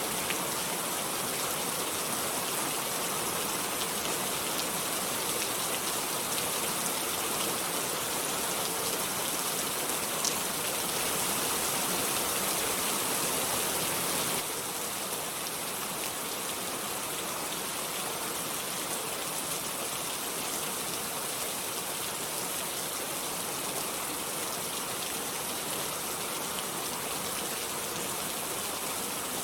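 Steady, dense rain: an even hiss of countless drops with no thunder. The level drops slightly about halfway through.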